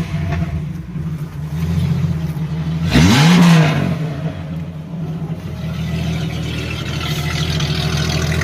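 Jeep Grand Cherokee ZJ's 4.0-litre straight-six idling through a newly fitted muffler, with one quick throttle blip about three seconds in that rises and falls in pitch.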